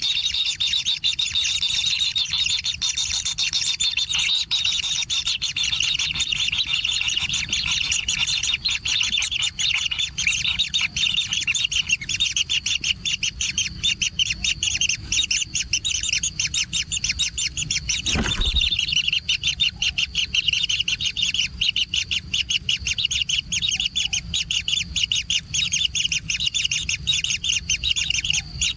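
Kingfisher nestlings calling without pause in a rapid, rasping chatter: chicks begging for food. A single thud sounds about eighteen seconds in.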